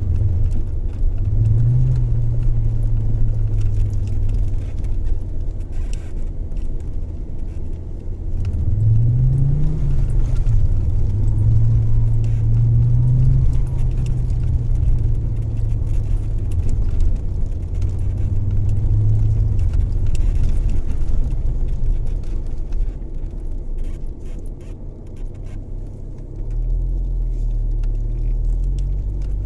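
Low engine rumble of a motor vehicle, its pitch rising and settling again several times, about a second in, around nine seconds in and near the end, as when a car pulls away and changes speed.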